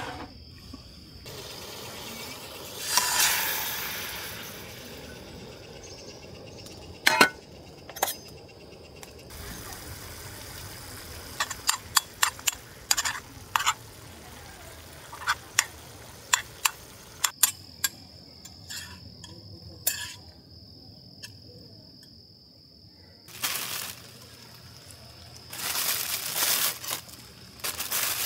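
Scattered clinks and taps of camp cookware and utensils, with a steady high insect drone from crickets behind them.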